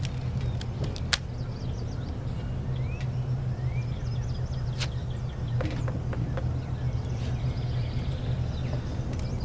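Rubber bands being stretched and snapped onto a watermelon rind: a few sharp, scattered snaps over a steady low rumble.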